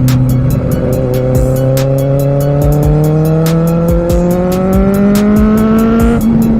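Kawasaki Z750R's inline-four engine pulling in gear, its pitch climbing steadily as the bike accelerates, then dropping sharply about six seconds in at an upshift. A steady ticking beat of music runs alongside.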